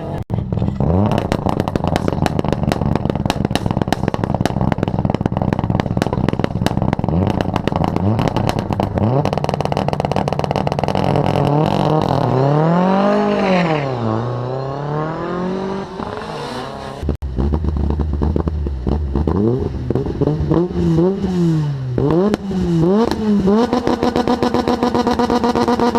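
Rally car engine revving hard with dense crackling for the first ten seconds or so, then a big sweep up and down in revs. Quick throttle blips follow, and the revs are held steady near the end.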